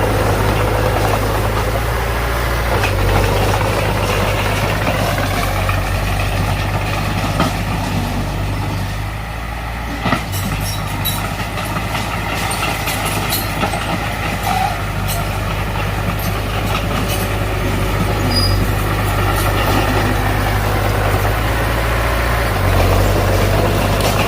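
Heavy diesel engine of earthmoving machinery running steadily with a low drone, its note shifting about three seconds in and again near the end. A single sharp click about ten seconds in.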